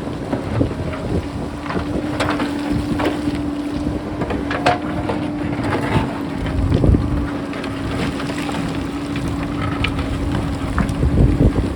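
JCB backhoe loader's engine running with a steady drone while rocks and stones clatter and knock repeatedly. Wind buffets the microphone in gusts, heaviest about six seconds in and near the end.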